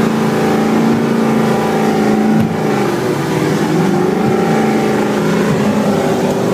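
Powerboat engine running hard, a steady drone whose pitch rises and falls slightly, over a rushing noise.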